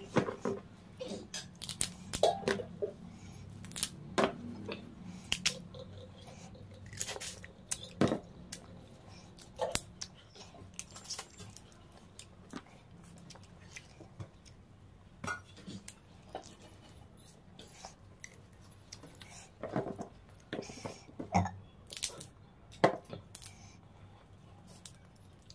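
Chewing and crunching while eating crab curry with rice by hand, with irregular sharp clicks and crackles throughout.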